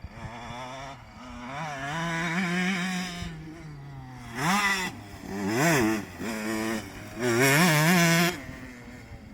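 Motocross bike engine running, then revved in three throttle blips: the pitch jumps up and drops back twice in quick succession, and the last rev is held high for about a second before falling away.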